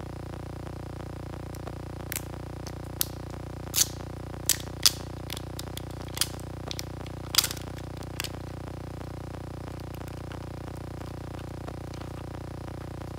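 A series of small, sharp clicks and snaps, about a dozen over some six seconds, from handling the iPhone 6s and repair tools during its battery replacement, over a steady low hum.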